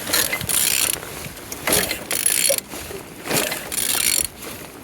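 Used A20DTH four-cylinder diesel engine being turned over by hand with a wrench: three rattling, clicking strokes about a second and a half apart as the crankshaft is rotated. The engine turns freely.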